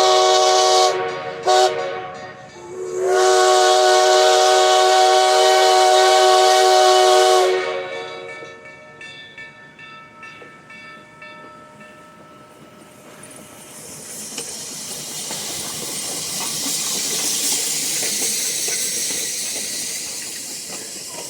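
Black Hills Central #110 steam locomotive's chime whistle sounding: a blast that ends about a second in, a short toot, then a long blast of several seconds. After it fades, a loud steady hiss builds.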